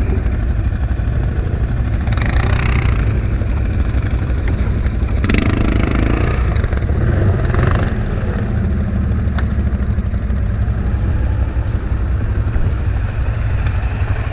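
ATV engine running steadily, with a couple of short noisy bursts about two and five seconds in.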